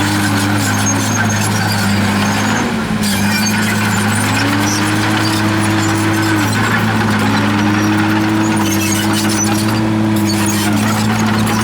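Komatsu D51PX bulldozer working: a steady low diesel drone under a higher whine that rises, holds and falls back again several times as the machine is loaded and eased off.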